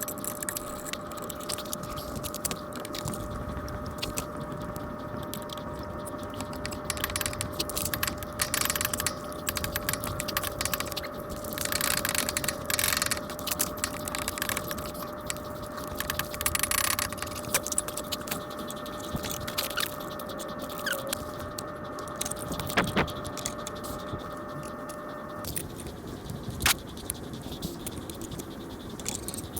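Irregular metallic clinks and scrapes over a steady faint hum.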